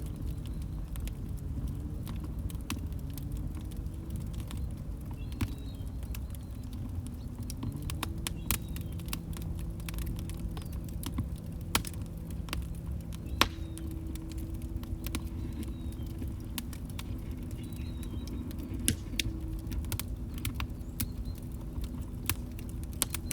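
Log fire crackling, with sharp scattered pops over a low steady rumble and a faint low hum that shifts in pitch now and then.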